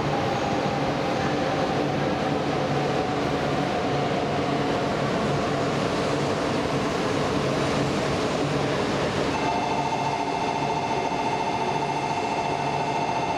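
E4 series Max Shinkansen standing at the platform, its equipment giving a steady hum and rush of fans. About nine seconds in, a steady electronic ringing starts and keeps going, a platform departure bell signalling that the train is about to leave.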